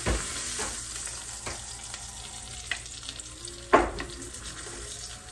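Food sizzling in hot grease in a frying pan, with a utensil knocking against the pan twice, once at the start and louder a little before four seconds in, as pieces are lifted out of the grease.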